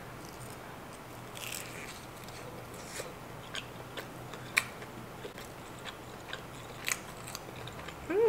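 Close-miked biting and chewing of a breaded shrimp cutlet, with scattered crisp crunches from the crust.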